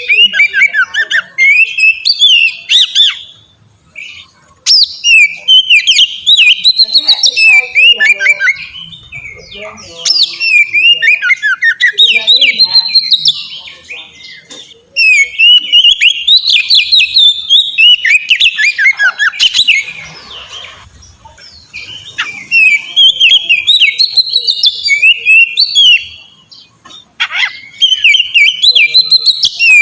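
Oriental magpie-robin (kacer) singing loudly in rapid, varied phrases of chirps and whistles, in bursts of a few seconds separated by short pauses.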